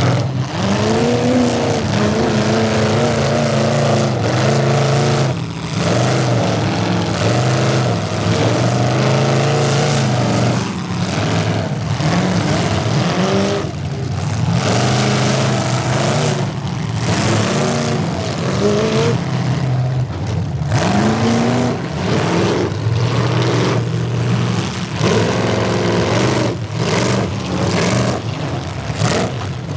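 Demolition derby car engines revving hard and dropping back, over and over.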